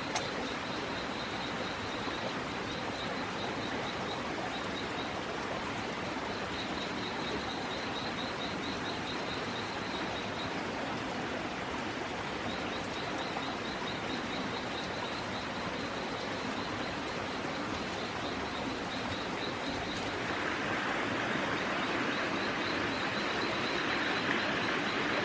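Outdoor ambience: a steady rushing noise, louder from about twenty seconds in. Over it, a fast, high-pitched pulsing call repeats in runs of several seconds with short gaps.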